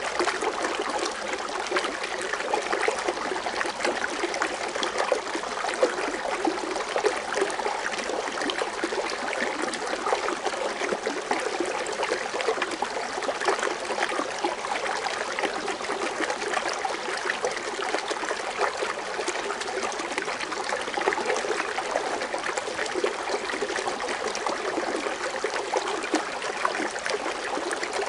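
Foaming water fountain running steadily, a continuous wash of falling, splashing water.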